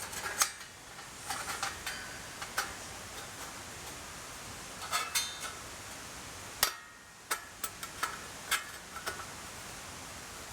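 Scattered metallic clinks and knocks of camp gear being handled while a fire pit is set up, about a dozen over the span and the loudest a little before the middle, over a steady background hiss.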